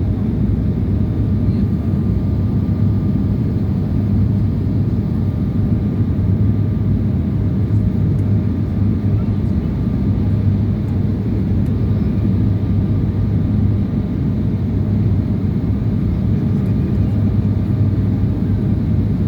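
Steady low drone of an airliner in flight, heard from inside the cabin, with a faint steady whine above it.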